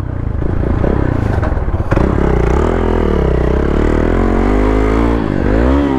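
Motorcycle engine running and revving, its pitch wavering up and down, with a sharp knock about two seconds in and a rev up and back down near the end.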